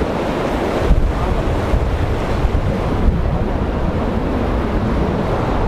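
Steady rushing of a fast mountain river, with wind buffeting the microphone.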